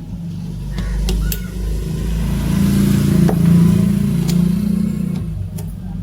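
A motor vehicle passing by: a low engine sound that grows louder to a peak about halfway through and then fades.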